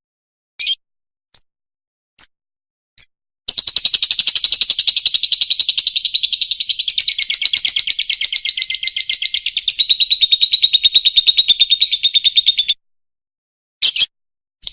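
Fischer's lovebird singing: a few sharp separate chirps, then a long, fast chattering run of high notes lasting about nine seconds, then a single chirp.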